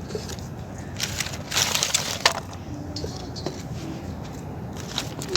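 Dry twigs and sticks being snapped and crushed by hand: scattered sharp cracks, with a dense crunching burst about one and a half to two seconds in.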